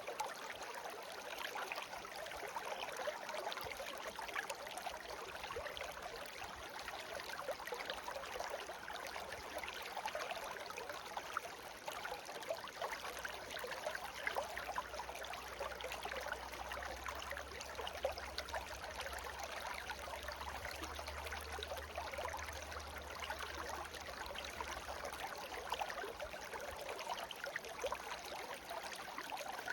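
A shallow brook babbling steadily, many small splashes and gurgles running together. A faint low rumble sits underneath through the middle stretch.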